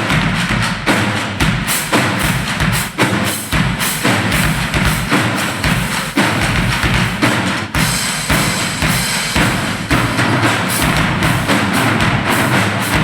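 Drum-heavy percussion music: a fast, dense run of drum and woodblock-like strikes.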